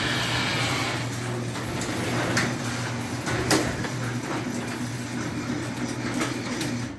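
Sears garage door opener running, its motor humming steadily while the door rolls and rattles in its tracks, with a few sharp clicks along the way; the motor stops abruptly near the end.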